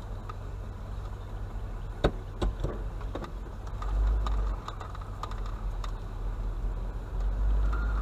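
A motor vehicle's engine running steadily, with a few sharp clicks about two seconds in.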